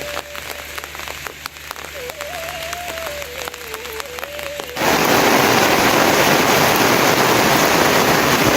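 Heavy rain, a loud, dense, steady hiss that starts abruptly about five seconds in. Before it there are scattered sharp ticks and a faint wavering tone.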